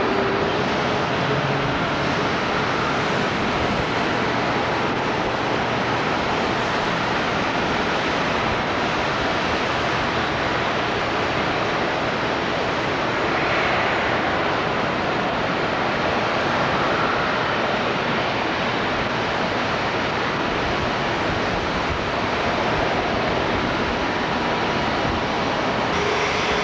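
Jet airliner engines running, a steady rushing noise with a faint whine.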